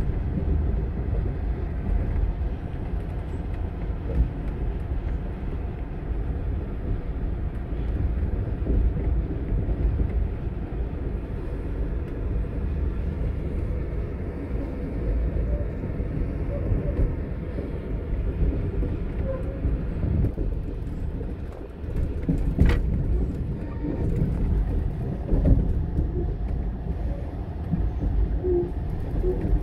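Amtrak passenger train heard from inside the car as it rolls along the track: a steady low rumble of wheels and car body, with one sharp knock about three-quarters of the way through.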